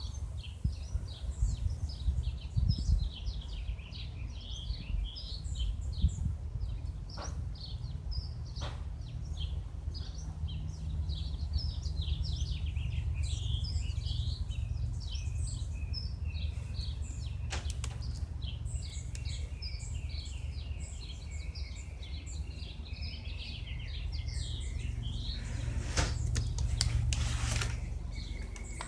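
Many songbirds chirping and twittering continuously over a steady low rumble, with a few sharp clicks.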